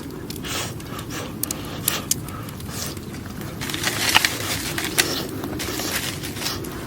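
Wood fire crackling in a fire pit, a steady low rush of burning with irregular sharp pops and snaps, the strongest a little past halfway.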